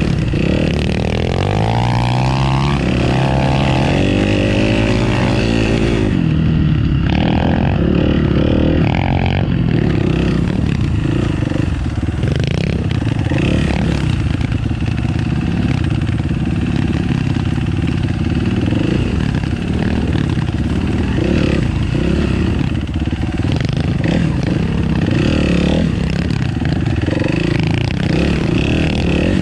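Motorcycle engine running. It revs up and down in the first few seconds and again near the end, and runs on loudly in between.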